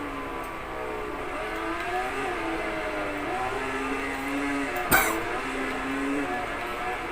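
Racing motorcycle engines at high revs, several at once, their pitch rising and falling as they pass and change gear. A single sharp crack about five seconds in.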